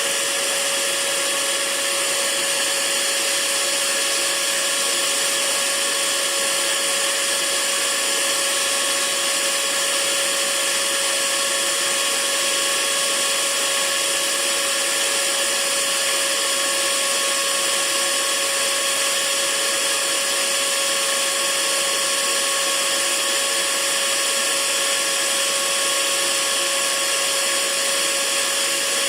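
Hair dryer running steadily: an even rushing hiss of blown air over a constant motor whine.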